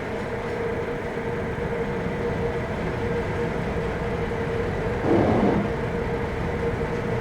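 Steady drone of the Maersk Anglia ferry's engines and machinery, with a constant hum running through it. A short louder rush of noise breaks in about five seconds in.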